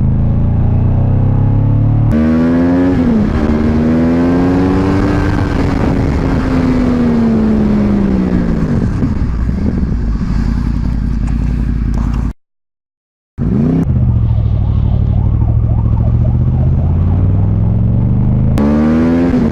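Motorcycle engine running hard, its pitch climbing and dropping with throttle and gear changes. The sound cuts out completely for about a second just past the middle and changes abruptly twice where clips are joined.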